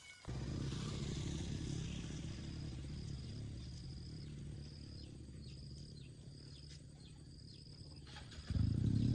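An engine running steadily, low and even, starting suddenly just after the start and getting louder again near the end. Faint high chirps repeat at a steady pace over it.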